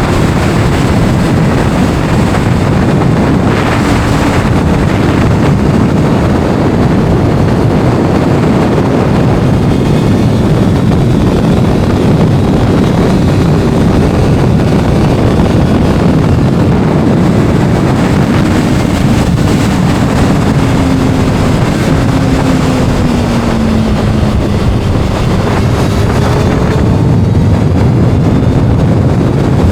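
Heavy wind buffeting on the microphone of a moving Kawasaki sport motorcycle, with the engine's note faint beneath it, dropping in pitch about two-thirds of the way through and climbing again near the end.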